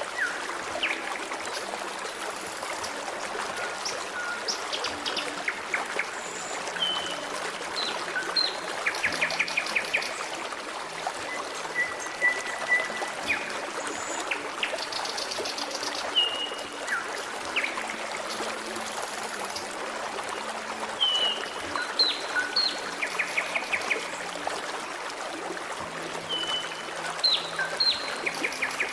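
Forest stream trickling steadily, with several songbirds calling over it: short whistled notes, quick rising chirps and rapid trills, scattered throughout.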